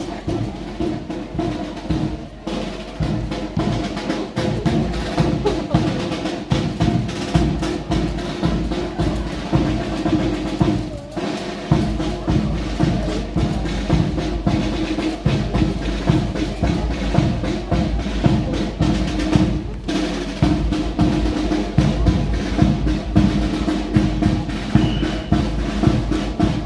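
A band playing music with snare and bass drums, a dense steady beat over held notes, with short breaks about 2, 11 and 20 seconds in.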